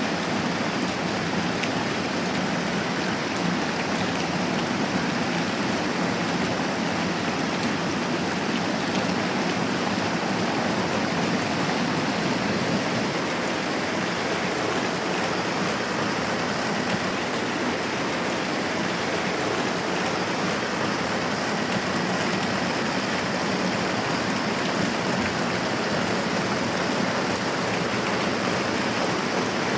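Moderate rain falling steadily, an even hiss with no break or change.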